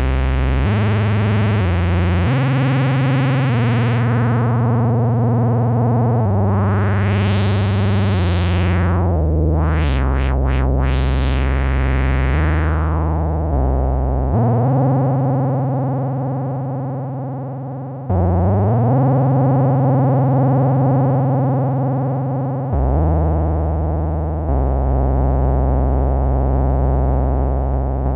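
Behringer K-2 analog monophonic synthesizer playing a low bass line of held notes, one at a time. A few seconds in, the filter sweeps up to a bright, buzzy peak and back down, then rapid wobbling sweeps follow. The notes near the end are short and repeated.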